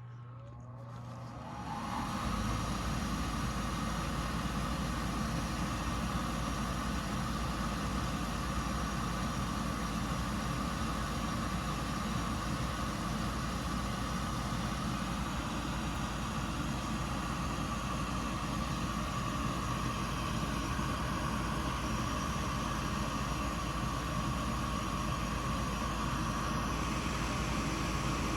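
Gas furnace's draft inducer motor spinning up, its whine rising over the first two seconds. It then runs steadily with a hum and a steady whine, the airflow now clear after a dead bird that had blocked it was removed.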